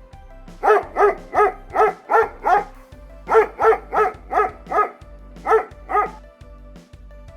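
A dog barking in quick runs of short, sharp barks (six, then five, then two) over steady background music.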